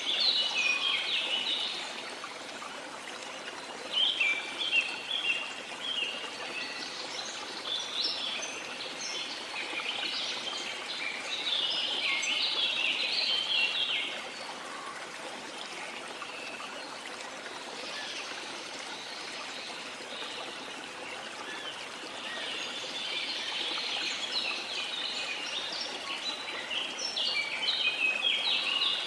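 Small songbirds chirping and twittering in bursts of quick high notes over the steady wash of the sea.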